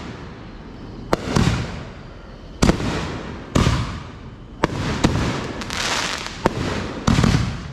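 Consumer fireworks going off: about six sharp bangs, roughly a second apart, with a dense crackling hiss between them that is heaviest in the second half.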